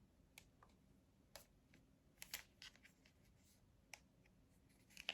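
Near silence with a few faint, irregular soft clicks and taps, small handling sounds of makeup items.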